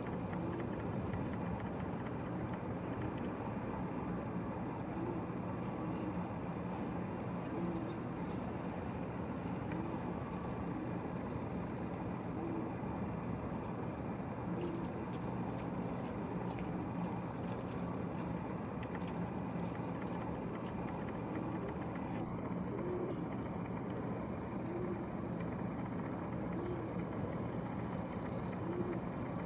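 Strong wind blowing steadily, with a small bird repeating a short, high, falling call note every second or two.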